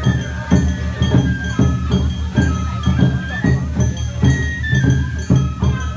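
Japanese festival dance music: a high flute melody held in long stepped notes over steady drum beats and jingling percussion, about two beats a second.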